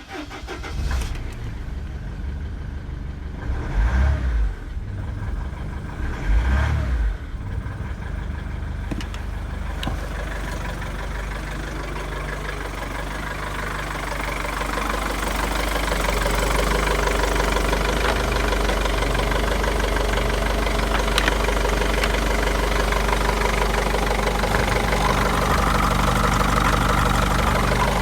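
Mercedes-Benz OM611 2.2 CDI four-cylinder common-rail diesel engine starting, revved briefly twice, about four and six and a half seconds in, then idling steadily, a little louder from about fifteen seconds on.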